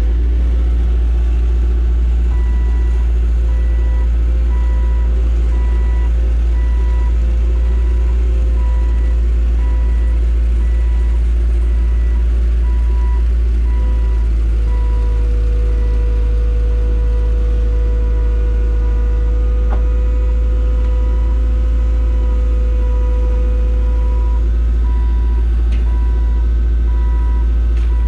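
Skid steer loader's diesel engine running steadily under load, with a hydraulic whine, while its reversing alarm beeps about once a second.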